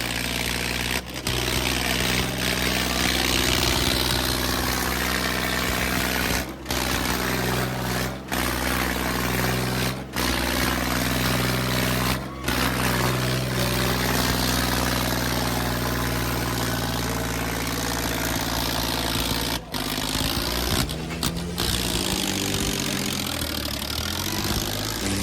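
Tractor engine running hard and steady during a tractor tug-of-war pull. Its pitch shifts after about two-thirds of the way through, and the sound drops out briefly several times.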